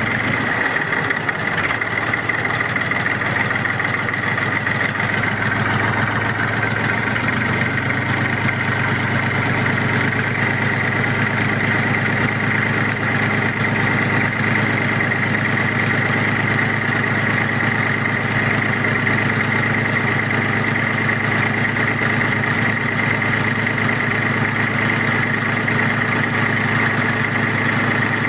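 Mini tractor's motor running steadily, a constant high whine over a lower hum.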